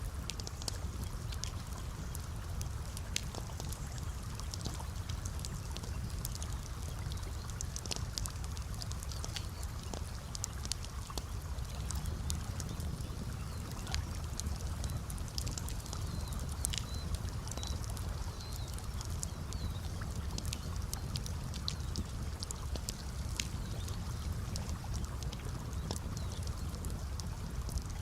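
Campfire crackling with frequent sharp pops at irregular intervals, over a steady low rush of gently running water.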